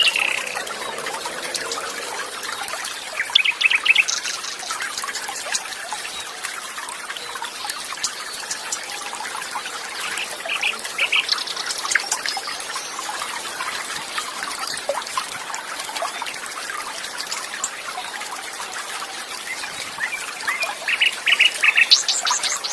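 Water trickling and flowing steadily, with birds chirping over it in short, rapid trills a few times: once about three seconds in, again around the middle, and near the end.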